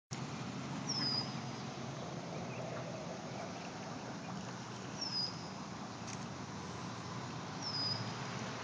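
A small bird calls three times, about every three seconds, each call a short high whistle sliding downward. Under it runs a steady low hum.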